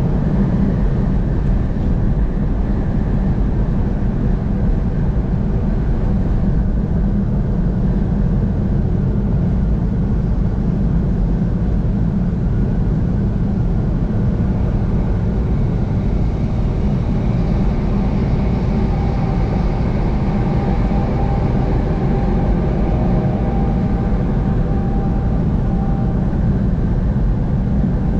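Steady low rumble of a vehicle travelling at highway speed: engine and tyre noise. A faint whine comes in about halfway through and fades out again shortly before the end.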